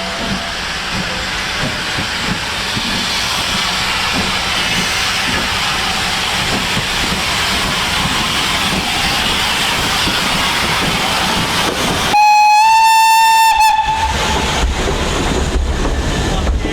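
Steam locomotive, BR Standard Class 4MT No. 76017, hissing steam as the train runs, the hiss growing louder. About twelve seconds in, one whistle blast on a single held note lasting about a second and a half, followed by a low rumble.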